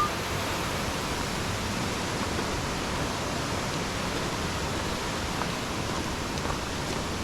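Aber Falls, a 120-foot waterfall, rushing steadily: an even, unbroken noise of falling water.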